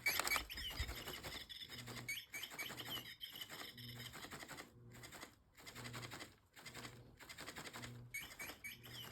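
Rechargeable interactive bird cat toy chirping: repeated electronic bird tweets, with a low hum pulsing about every second alongside.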